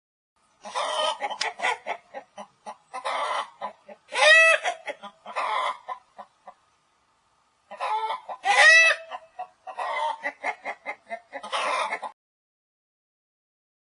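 Chickens clucking in two similar runs of quick short calls, each about five seconds long, with a louder drawn-out call in the middle of each run.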